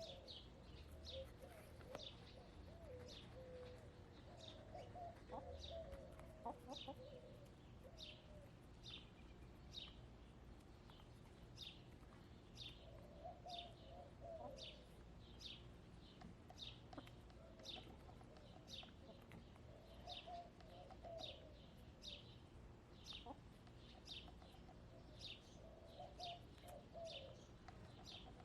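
Faint backyard hens clucking and murmuring softly in short spells, under a wild bird repeating one short, high, falling chirp a little faster than once a second.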